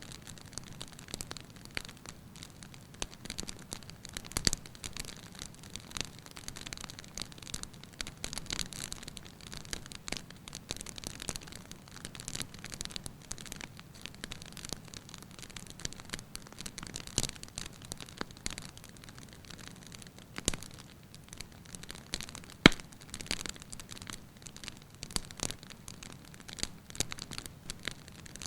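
Firewood burning in a fireplace, crackling with irregular small pops over a low hiss, and a sharper, louder pop about three-quarters of the way through.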